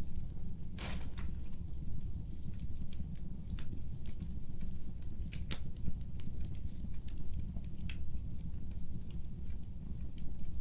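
Fireplace fire crackling: irregular sharp pops and snaps over a steady low rumble of flame, with a louder pop about a second in and another about five and a half seconds in.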